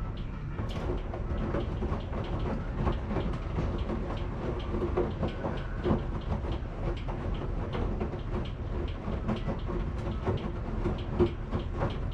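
Washing machine running: a steady low rumble with many quick, irregular clicks and knocks that begin about a second in.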